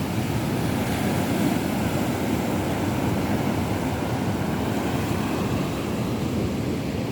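Rough sea surf breaking on a beach: a steady, low rushing rumble with no distinct individual waves.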